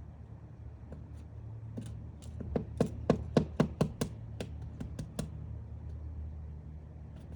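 Woodpecker chiselling at wood while excavating its nest hole: a run of sharp knocks, about five a second for some three seconds, loudest in the middle of the run.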